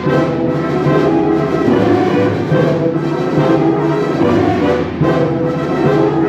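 A concert wind band playing, with brass in front: full held chords that change every second or so, without a break.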